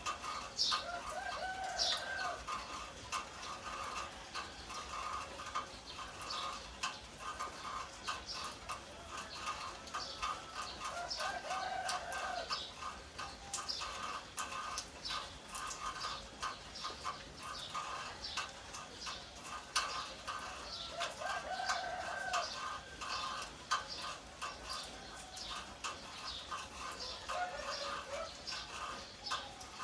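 A rooster crowing four times, each crow about a second long, at intervals of roughly ten seconds, over a dense, steady stream of quick high ticks and chirps.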